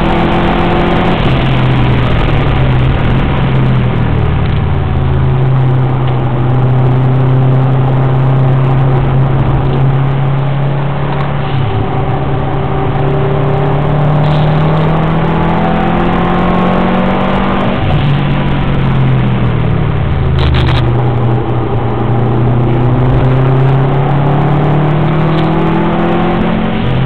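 Subaru WRX's turbocharged flat-four engine driven hard on a race track: its note climbs steadily under full throttle and falls away sharply twice, a few seconds in and again about eighteen seconds in, as the driver lifts off and brakes for corners before accelerating again.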